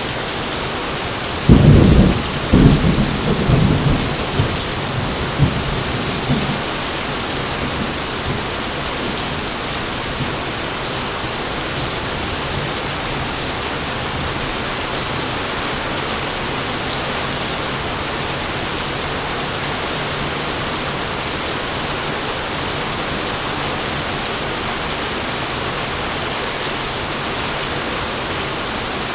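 Heavy rain falling steadily, with a sudden loud thunderclap about a second and a half in that rumbles on in a few diminishing peals and dies away by about six seconds in.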